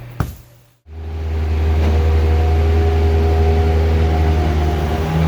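Bobcat 763 skid steer's diesel engine running steadily, a loud low hum with a few steady tones above it. It comes in after a sharp click and a moment of silence, about a second in.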